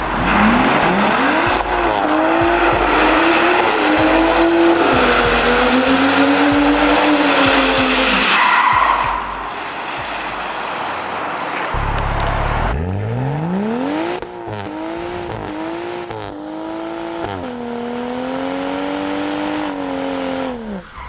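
BMW M235i's turbocharged straight-six with a de-cat downpipe, revving hard and held at high revs while the tyres spin and squeal. This happens twice, with a cut about halfway through.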